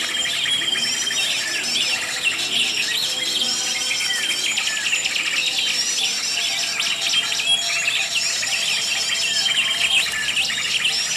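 Many small songbirds chirping, trilling and calling over one another in a dense, continuous chorus, with a held high whistle that repeats every couple of seconds.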